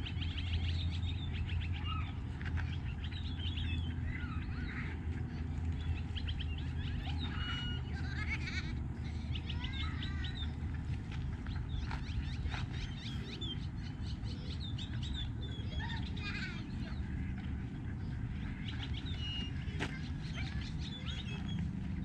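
Many birds chirping and calling over one another, a steady run of short chirps and trills. A steady low rumble sits underneath and fades about halfway through.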